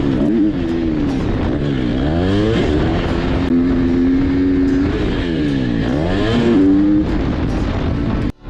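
Motocross dirt bike engine at high revs, the pitch repeatedly dropping off and climbing back as the throttle is chopped and reopened, with one longer steady stretch midway; it cuts off abruptly near the end.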